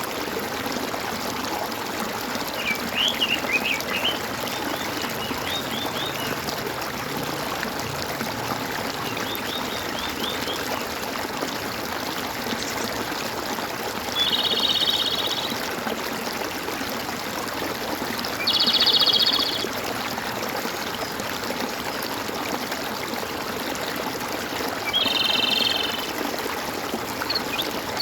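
Stream water gurgling and trickling steadily. Small birds chirp in brief quick runs a few seconds in and again near the middle. Three separate trilled calls of about a second each come several seconds apart and stand out above the water.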